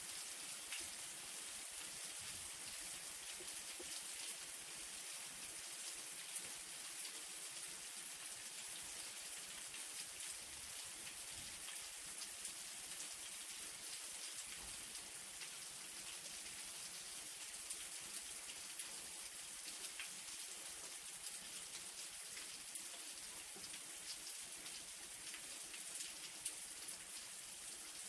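Steady light rain: a soft, even hiss of falling rain with many small drops ticking on a surface.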